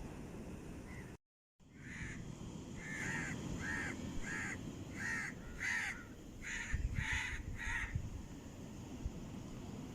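A crow cawing repeatedly, about ten harsh calls in quick series, over a steady low background rumble. The sound cuts out completely for a moment about a second in.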